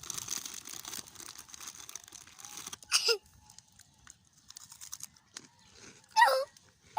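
Bonfire crackling and popping for about three seconds, then quieting. Two short, loud squawks with a falling pitch cut in, one about three seconds in and one near the end.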